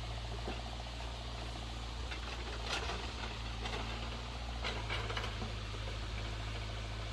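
Car running, a steady low engine and road drone, with a few faint clicks in the middle.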